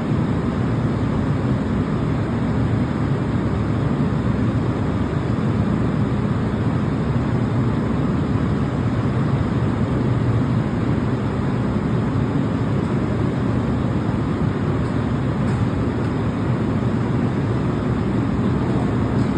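Electric train running at steady speed: a continuous low rumble that stays even throughout.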